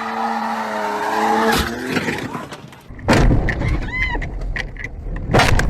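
Road vehicle sounds from a dashcam: a steady pitched engine or tyre tone for about two seconds, then loud sudden noisy bursts about three seconds in and again near the end.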